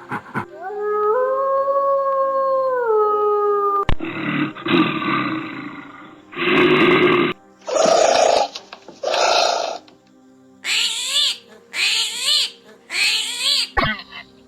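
A run of different animal calls one after another: a long pitched call held about three seconds, then two rough roars, two shorter calls, and four quick repeated calls near the end.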